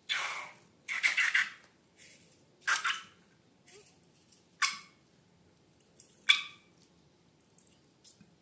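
Slime being squeezed and handled: about five short, sticky squelches and crackles at irregular intervals, with faint ticks between them.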